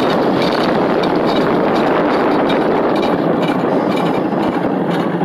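Hot rod truck on the move: a loud, steady rush of engine, road and wind noise.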